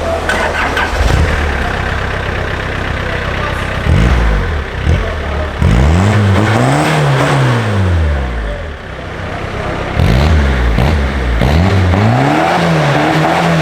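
Opel Corsa B 1.7 turbo-diesel, its injection pump modified for more power, revved while parked: idling at first, then two quick blips, then twice held up to high revs and let fall back, the second rev still dropping near the end.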